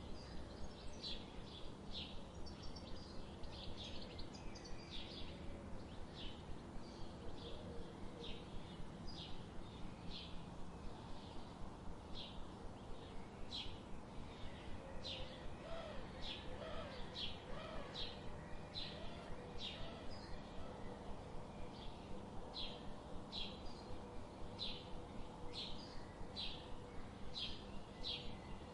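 Forest ambience: a bird chirping over and over, short high notes a little under two a second, over a steady low background noise. A lower, wavering call joins briefly in the middle.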